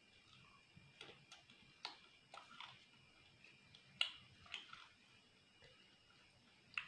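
Close-miked chewing of crispy fried chicken pakora: scattered crunches and clicks, the sharpest about four seconds in.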